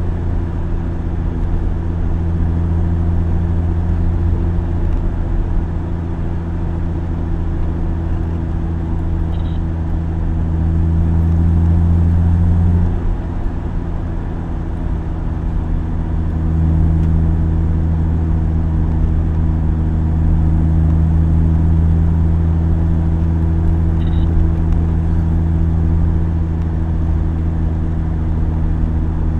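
Car engine running steadily while driving, a low droning note with road noise. The engine note swells about ten seconds in, drops off suddenly around thirteen seconds as the throttle eases, then picks back up a few seconds later.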